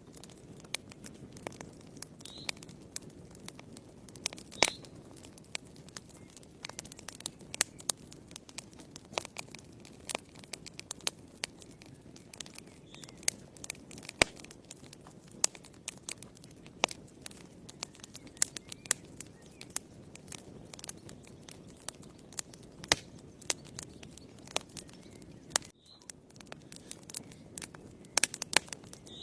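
Wood fire burning in a fireplace: irregular sharp crackles and pops, several a second, over a steady low hiss of the flames.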